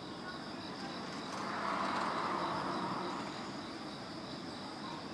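Steady high chirping of insects over the low running noise of an approaching JR Freight EF65 electric locomotive hauling tank cars. A rush of noise swells and fades about two seconds in.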